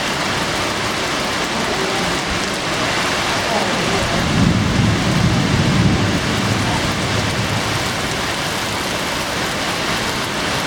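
Heavy typhoon rain pouring steadily onto the lotus pond. A low rumble of thunder swells about four seconds in and fades out a couple of seconds later.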